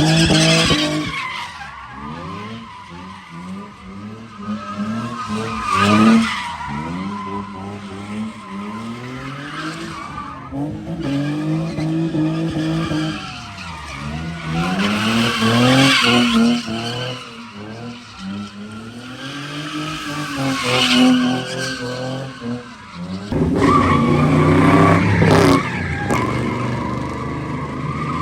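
A car engine revving up and down again and again while the tyres skid and squeal on pavement, as a car drifts or does donuts. A louder engine comes in about 23 seconds in.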